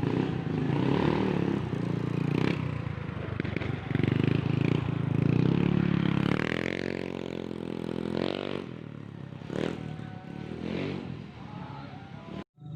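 A motor vehicle engine running, its pitch sweeping around the middle, with a few short knocks and clatters; the sound cuts off abruptly near the end.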